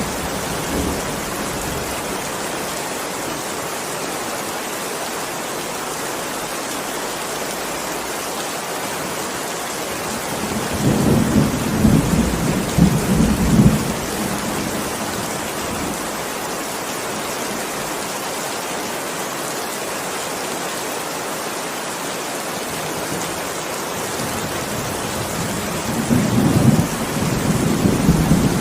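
Steady heavy rain falling, with rolls of thunder rumbling twice, about ten seconds in and again near the end.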